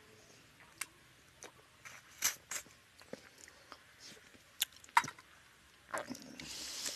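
Close-up mouth sounds of eating rice and fish curry by hand: wet lip smacks and chewing clicks, scattered and irregular, the loudest about five seconds in. A short breathy rush near the end.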